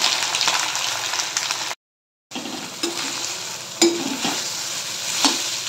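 Boiled soya chunks sizzling as they fry in oil in a well-heated kadhai, with a perforated metal spatula stirring and scraping against the pan with a few sharp clicks in the second half. The sound cuts out completely for about half a second near two seconds in.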